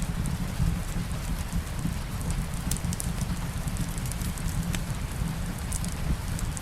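Steady rain hiss over a low rumble, with scattered sharp crackles and pops of a wood fire in a fireplace.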